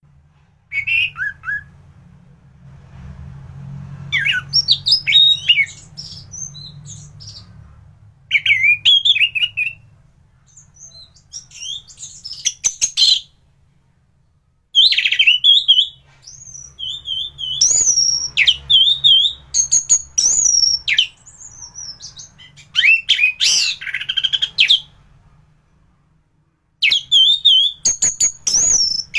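Orange-headed thrush (anis merah) singing in full form: loud bursts of rapid, varied whistles and chirps, each phrase a second or two long, with short pauses between them.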